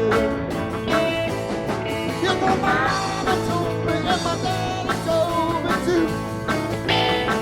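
Live rock band playing an instrumental passage: guitars, bass, keyboards and drums with pedal steel, lead lines gliding and bending between notes.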